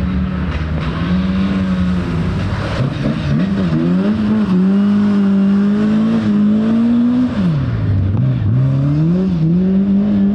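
Rally car engine working hard along a stage, its pitch rising and falling through gear changes, with a sharp drop about seven seconds in as the driver lifts off, then climbing again.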